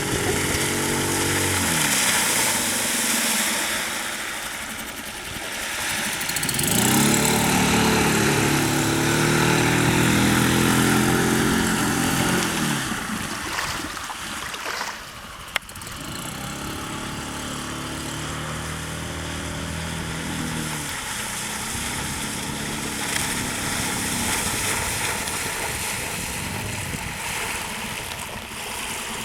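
Suzuki DF5 four-stroke outboard motor running, its throttle opened and closed: the engine slows in the first few seconds, speeds up sharply about a quarter of the way in and holds high revs, then drops back to a lower steady run for the rest. A single sharp click comes about halfway.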